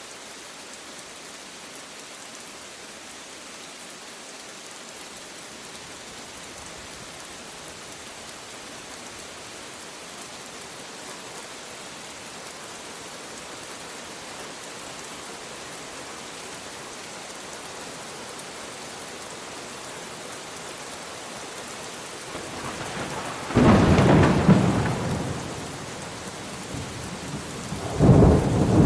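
Steady rain falling, then thunder: a sudden loud clap with rumbling about 23 seconds in that fades over a few seconds, and a second clap breaking near the end.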